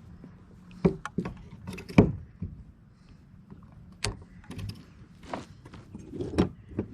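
Irregular knocks and thumps, about five sharp ones, with scuffing and rustling between them: the handling noise of landing a hooked bass and working with the fishing gear.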